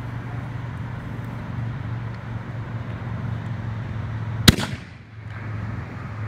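A 5-inch canister firework shell firing from its mortar tube: one sharp bang about four and a half seconds in, followed by a short ringing tail. A steady low hum runs underneath.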